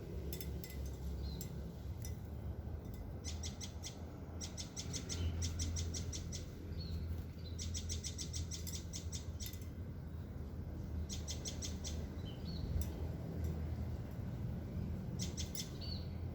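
A bird calling in rapid trills of short repeated high notes, in bursts of about a second, several times over, with a few single chirps between. A steady low rumble runs underneath.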